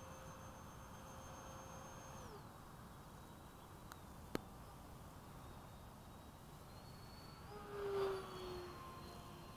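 Whine of an RC A-10 jet's electric ducted fans at a distance: the pitch steps down about two seconds in as the throttle is eased, and near the end a brief louder pass comes through with the pitch falling. A single sharp click sounds midway.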